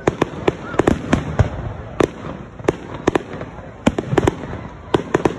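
Aerial fireworks display: an irregular string of many sharp bangs and pops from shells bursting overhead, several a second at times.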